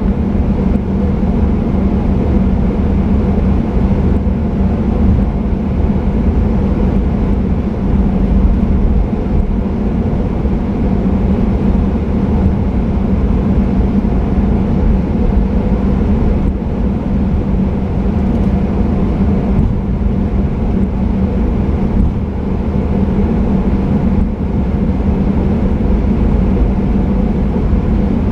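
Steady cabin noise of a Boeing 737-800 with its engines running: a constant low rumble with a steady hum.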